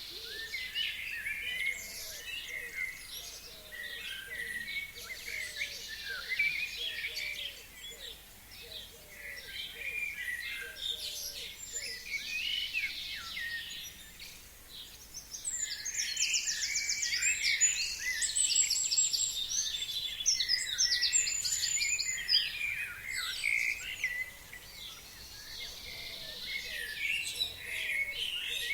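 A chorus of several forest songbirds singing and calling over one another, with a louder run of rapid trills just past the middle.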